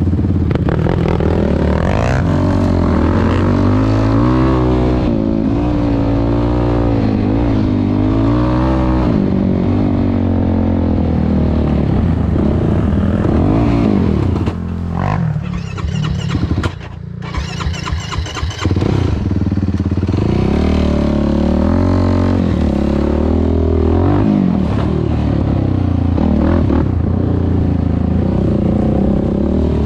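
Yamaha YFZ450R quad's single-cylinder four-stroke engine, fitted with a Rossier R5 aftermarket exhaust, running under riding, its pitch rising and falling as the throttle is worked. About halfway through it eases off for a few seconds, with a patter of sharp pops, then picks up again.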